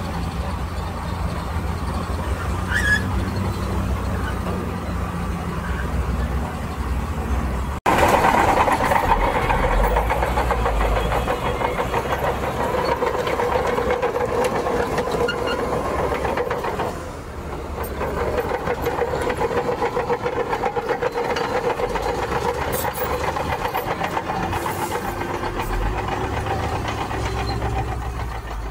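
Heavy diesel earthmoving machinery running steadily under load, the engines' drone carrying a steady hum. The sound breaks off sharply about eight seconds in and comes back louder.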